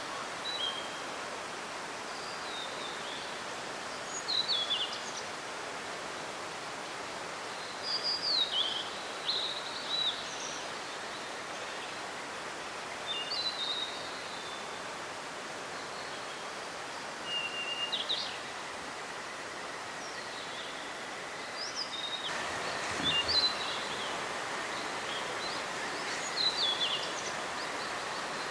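Blue-and-white flycatcher singing short phrases of clear, quickly rising and falling whistles every few seconds, over the steady rush of a mountain stream.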